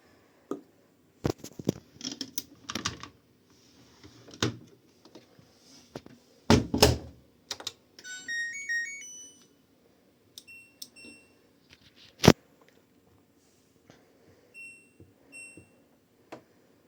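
Washing machine being handled and set: a run of clicks and knocks, the loudest about a third of the way in, then a short rising electronic power-on melody, followed by several single button beeps.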